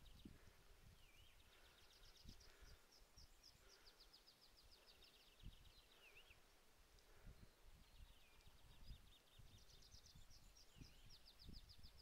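Faint songbird singing, a phrase of rapid high notes stepping down in pitch and ending in a short dipping note, repeated about five times. Soft low thumps on the microphone run underneath.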